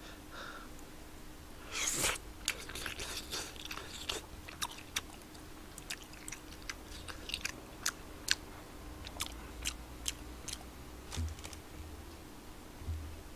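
Close-up mouth sounds of eating spicy tteokbokki: a louder slurp or bite about two seconds in, then chewing with many short wet clicks and smacks.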